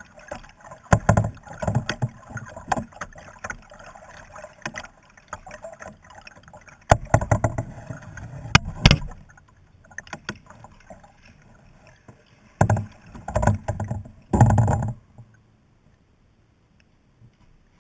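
Kayak paddling: irregular paddle strokes splashing in the water, with a few sharp knocks of the paddle or against the hull, coming in bursts and stopping about three seconds before the end.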